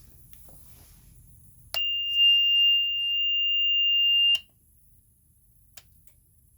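A single steady, high-pitched electronic beep held for about two and a half seconds, opening and closing with a click.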